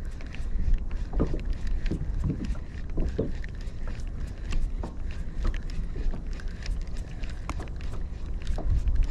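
Wind buffeting the microphone with a steady low rumble, while choppy water slaps against a kayak hull in irregular short knocks.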